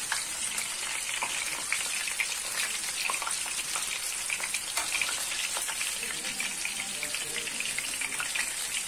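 Hot oil sizzling steadily, with frequent small pops, as bulgur-shelled içli köfte deep-fry in a stainless steel frying pan.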